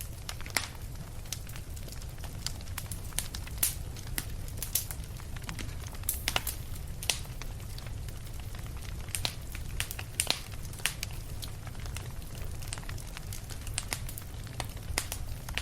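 Campfire burning, wood crackling and popping in sharp irregular snaps over a steady low rumble of the flames.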